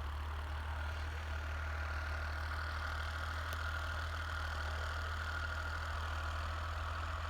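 Tractor engine running steadily at a constant speed: a low, even hum with a faint steady whine above it.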